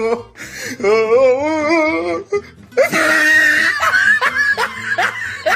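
Laughter mixed with music: a long wavering pitched note, then a noisy stretch broken by short rising yelps.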